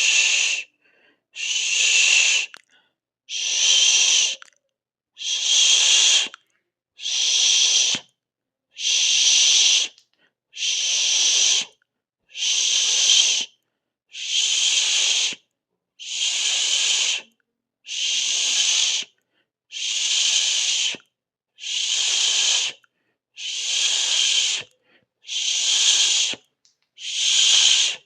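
A person hissing 'sss' through the teeth over and over, each hiss about a second long with a short silence between, roughly one every second and a half.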